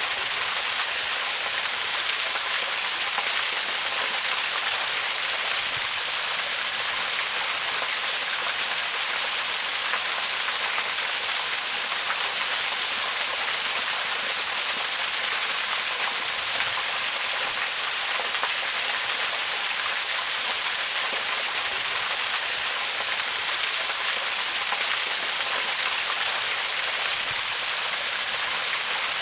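Waterfall rushing steadily, a dense even hiss of falling water with most of its energy in the upper range.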